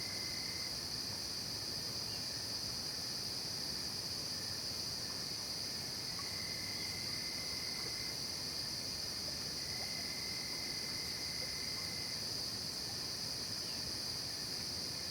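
Night-time insect chorus in a forest: a steady, unbroken high shrill from many insects. A lower, even trill comes and goes twice, for about two seconds each time.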